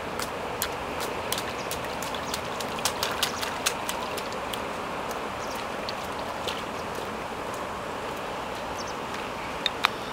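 Steady rain falling, with irregular sharp ticks of drops scattered through it.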